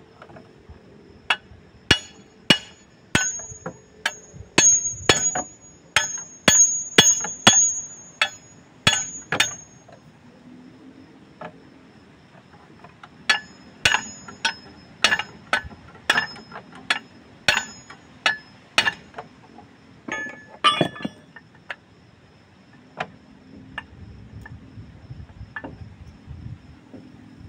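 Hammer striking metal in two runs of blows, about two a second, each blow ringing high. A quick cluster of hits comes about two-thirds of the way in, and a few lighter taps follow.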